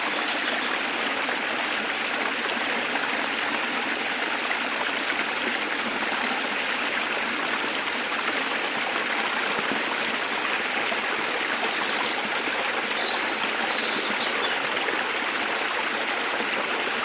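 Waterfall water rushing steadily, with a few faint, short bird chirps about six seconds in and again a little past the middle.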